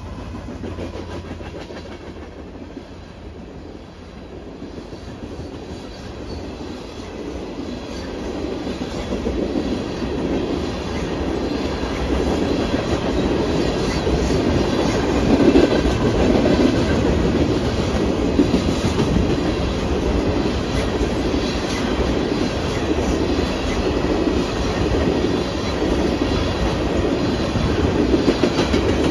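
Empty ethanol tank cars of a freight train rolling past, their wheels clattering on the rails. The sound grows louder from a few seconds in and then stays steady.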